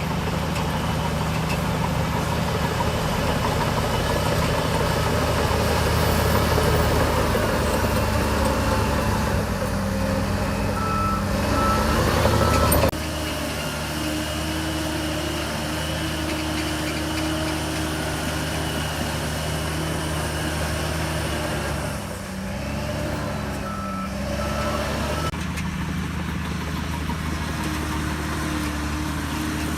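Heavy bulldozer diesel engine running steadily at work, with a reversing alarm beeping in two short runs of three beeps, about a third of the way in and again later. The engine sound drops abruptly just before the first third is over.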